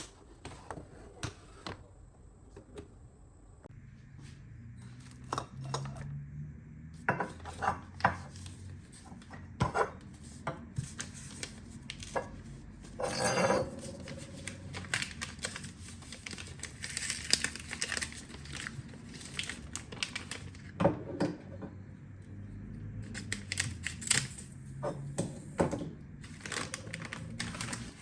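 Household handling noises: scattered clicks and knocks of objects being picked up and set down, with rustling and a longer scrape about halfway through.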